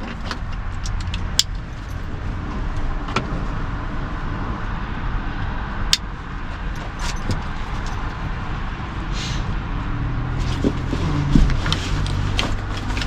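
Gear being handled, with scattered sharp clicks and knocks over a steady low rumble.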